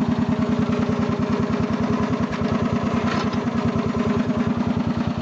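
Rally Roper lawn tractor's 12 horsepower Briggs and Stratton petrol engine running steadily with an even, rapid beat.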